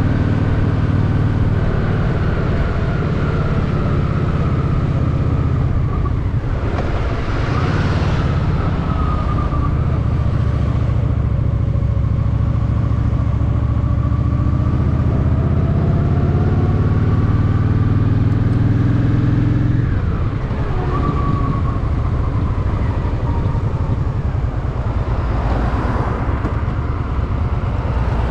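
Honda Shadow VT750 V-twin engine running steadily under way. A brief rush of noise comes about seven seconds in, and the engine note drops and quietens about two-thirds of the way through.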